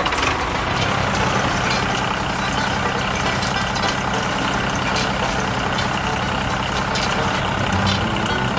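A heavy vehicle engine running steadily, with an even low hum.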